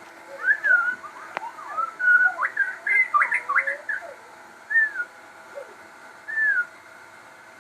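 Crossbred murai, a Copsychus songbird, singing. A quick run of varied whistled phrases lasts about four seconds, then two single down-slurred whistles follow, a little over a second apart.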